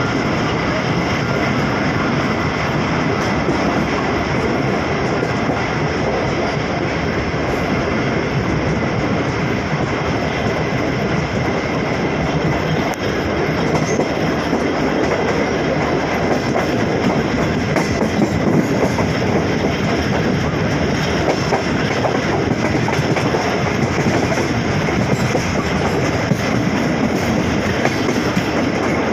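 A train running on the rails: a steady, loud running noise that does not stop, growing slightly louder about halfway through.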